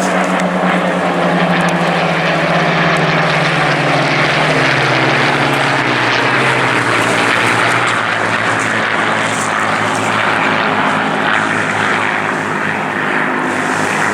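A pair of Spitfires flying past, their V12 piston engines droning with a note that falls steadily in pitch over the first several seconds as they pass, then holds lower.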